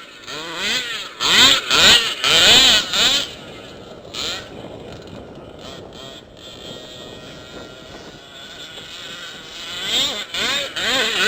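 Small two-stroke engine of a gas-powered RC off-road car revving up and down in quick bursts, dropping to a quieter steady drone in the middle, then revving hard again near the end.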